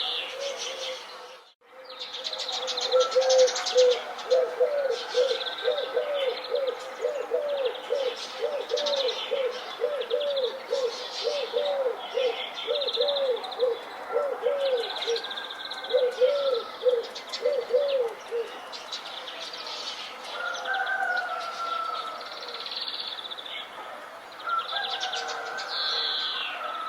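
Bird chorus: many songbirds chirping and trilling, with a low call repeated about twice a second through much of the stretch. The sound cuts out briefly just after the start.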